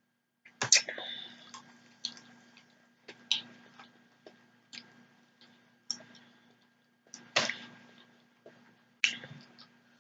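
Wet mouth sounds of eating and drinking: a string of sharp clicks and smacks, roughly one every second or so, over a faint steady air-conditioner hum.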